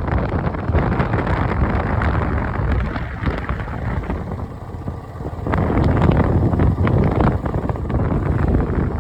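Wind buffeting the microphone of a moving motorcycle, with engine and road noise underneath. The rush eases a little around the middle and swells again about five and a half seconds in.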